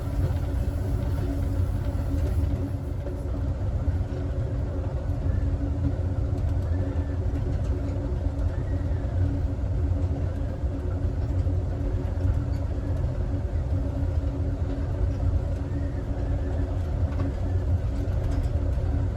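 Steady rumble of the Southwest Chief passenger train running along the track, heard from inside its rear car.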